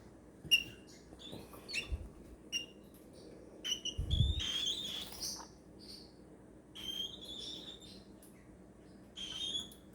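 Young hand-fed cockatiel chicks giving short, high squeaky calls again and again: the squeaky food-begging of chicks not yet weaned. A couple of dull bumps are heard, the louder one about four seconds in.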